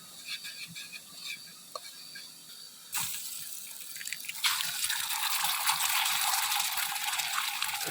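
Faint night ambience with thin high insect calls, then, about three seconds in, a sudden steady hiss of heavy rain that grows much louder a second and a half later and keeps going.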